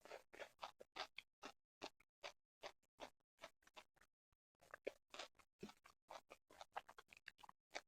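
Close-miked chewing and mouth sounds while eating sushi: quick, soft clicks, about three or four a second, with a pause of about a second midway.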